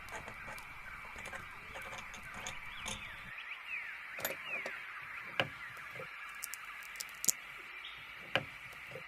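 Layered ambience soundscape: birds chirping, with a cluster of short falling chirps in the middle, over a steady high background. A few sharp clicks or ticks are scattered through the second half.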